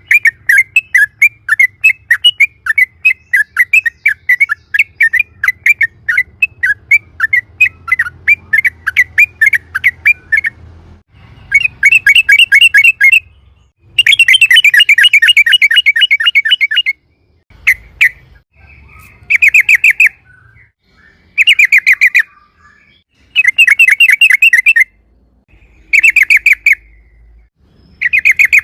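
Yellow-vented bulbul (trucukan) singing a loud, fast rolling chatter of repeated notes: one unbroken run for about ten seconds, then a string of shorter rapid bursts, each a second or two long, with short pauses between.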